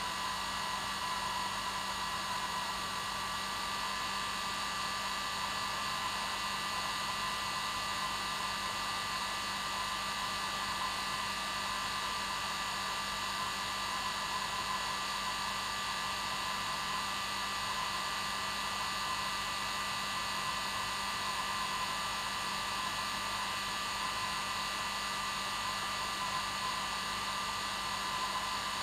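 Hair dryer running steadily on its normal setting: an even rushing hiss of air with a constant motor hum and whine, unchanging throughout.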